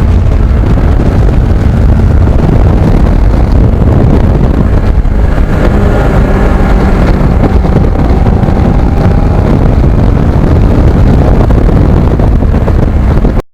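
Kawasaki Ninja motorcycle under way at a steady cruise: engine drone largely buried under loud wind rush on the microphone.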